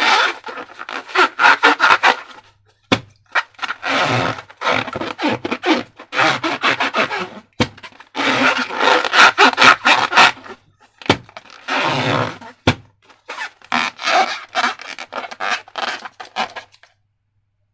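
Slime being squeezed and worked by hand with rubber balloons, giving bursts of crackly rubbing and sticky clicking with short pauses between them. The bursts stop shortly before the end.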